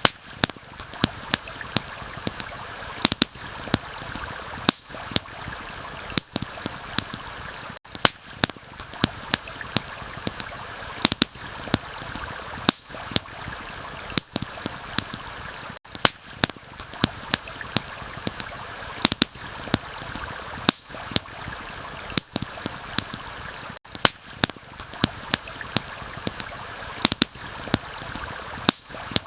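A steady rushing stream mixed with a crackling campfire, giving frequent sharp irregular pops and snaps over the flowing water. The whole bed dips briefly about every eight seconds.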